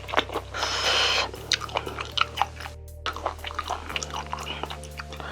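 Close-up chewing: wet mouth smacks and small clicks of food being chewed, with a short noisy burst about a second in. Quiet background music with steady low notes plays underneath.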